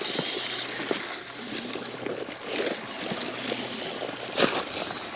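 Water trickling and splashing, with scattered clicks and knocks.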